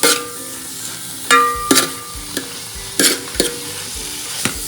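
Sliced onions sizzling in coconut oil while a spoon stirs them round the pan: a steady frying hiss with sharp scraping knocks every second or so, some leaving a brief metallic ring from the pan.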